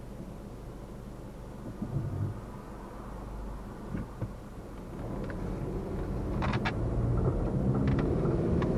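Car road and engine noise heard from inside the cabin, a steady low rumble that grows louder about halfway through as the car picks up speed, with a few short knocks.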